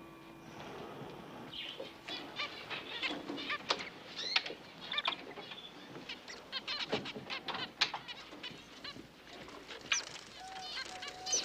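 Canaries chirping and twittering: many short, high chirps that come thick and overlapping, with a few sharp clicks among them.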